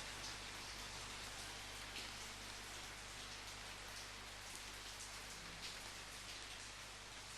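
Steady rain falling, with a few individual drops standing out a couple of seconds apart.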